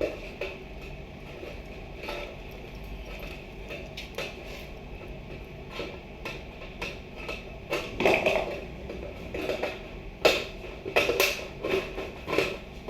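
Irregular knocks, taps and clatter of hard objects being handled and set in place during repair work, sparse at first and coming thicker and louder in the second half.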